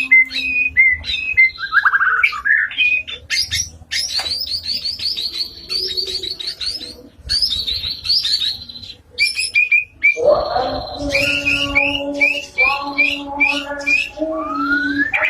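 White-rumped shama (murai batu) singing a loud, varied song of whistled phrases. It begins with runs of rapid repeated high notes, then after a short break about ten seconds in, lower, fuller notes sound beneath a series of upward-slurred whistles.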